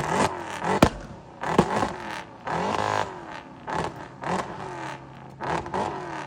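Car engine revved in quick repeated blips, each rising and then falling in pitch, with one longer, steadier rev about two and a half seconds in. There is a single sharp crack a little under a second in.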